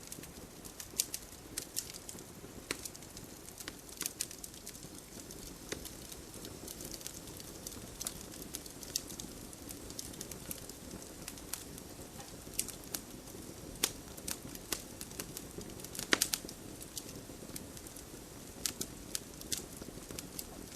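Campfire crackling: irregular sharp pops and snaps of burning wood over a steady low rush, with a louder cluster of pops about three quarters of the way through.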